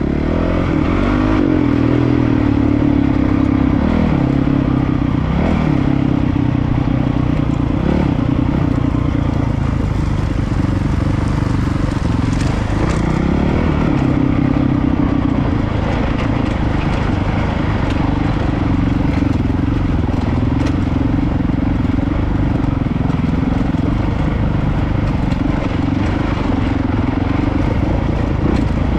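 Honda CRF450RL dual-sport motorcycle's single-cylinder four-stroke engine running at low revs on a rocky downhill trail, the throttle opening and closing so the pitch dips and rises several times. Scattered clicks and clatter come through along with it.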